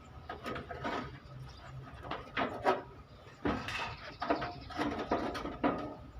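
Irregular hammer blows and clanks on the sheet metal of a truck body, about a dozen sharp knocks with a short ring after each.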